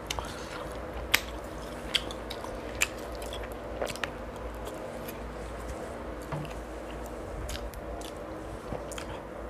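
Close-miked eating: wet chewing and squishy mouth sounds, with sharp lip-smacking clicks about once a second. A steady low hum runs underneath.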